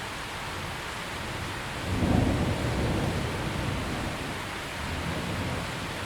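Steady rain, with a roll of thunder that breaks about two seconds in and rumbles away over the following few seconds.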